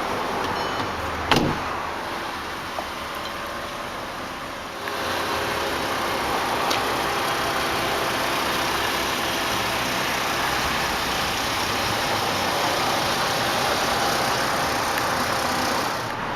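2005 Volkswagen Jetta's 2.5-litre five-cylinder engine idling steadily. A single sharp knock comes about a second in, and at about five seconds the sound turns louder and brighter and then holds steady.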